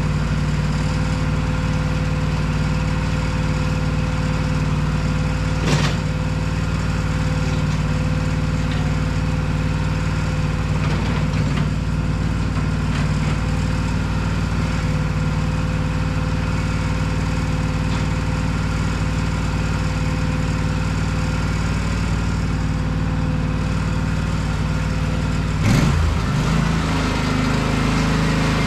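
Small petrol engine running at a steady speed, with a short knock about six seconds in. Near the end there is a jolt, and the engine note shifts and wavers.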